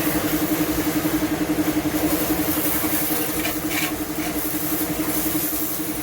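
A motor running steadily: a rapidly pulsing hum over a hiss.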